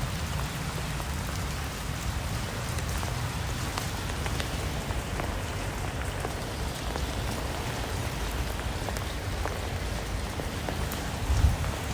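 Steady rain, with scattered single drops ticking sharply over an even hiss and a low rumble underneath.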